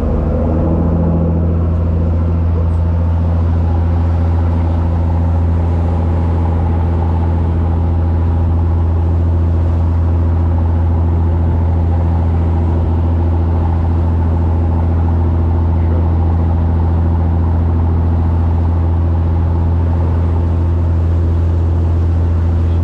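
A fishing boat's engine running steadily: a constant low drone that holds one pitch throughout.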